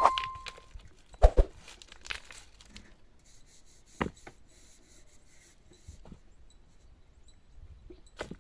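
A few scattered sharp knocks and taps: two close together about a second in, one around four seconds in, and one near the end. A bell-like ding rings and dies away at the very start.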